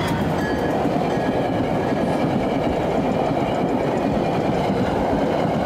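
Coaches of a SEPTA commuter train rolling past, a steady rumble of steel wheels on rail.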